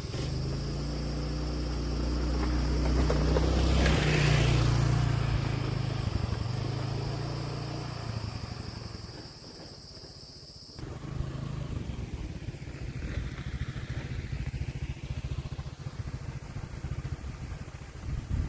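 Motor vehicle engine running, swelling to its loudest about four seconds in and then fading, with a steady high buzz over it. After a sudden change at about eleven seconds, an engine is heard again with a more uneven, fluttering sound.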